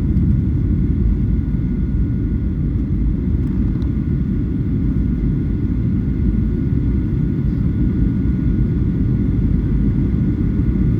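Steady low rumble of cabin noise inside a Boeing 737-900 airliner on its descent, from airflow and the CFM56 turbofan engines, with a faint steady whine on top.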